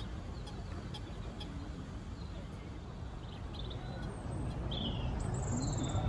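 Small birds chirping over a steady low outdoor rumble, with a few short chirps and a thin high whistle in the last two seconds.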